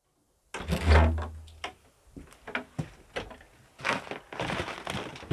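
A heavy low thump about half a second in, followed by a run of sharp knocks, clatter and rustling, like wooden things being handled.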